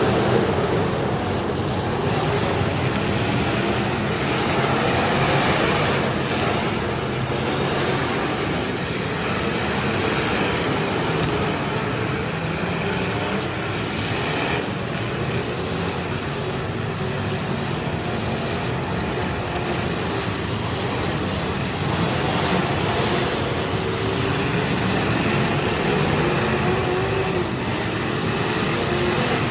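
Demolition derby cars' engines running and revving together, loud and continuous, their pitch rising and falling.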